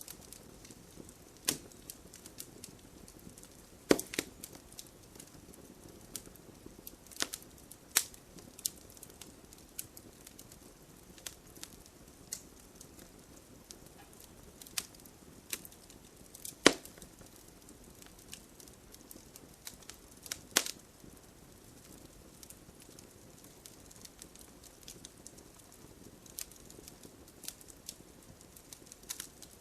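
Wood fire crackling, with irregular sharp pops and snaps of burning wood over a low steady hiss of the flames.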